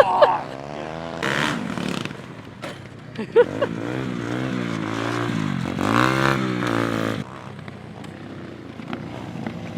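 A small engine revving up and down in uneven blips, with a scraping clatter around it. It eases off about seven seconds in.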